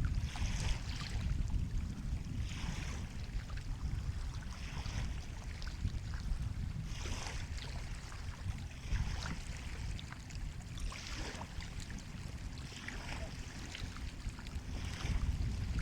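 Sea waves washing in, a short hissing wash about every two seconds over a steady deep rumble of surf and wind on the microphone.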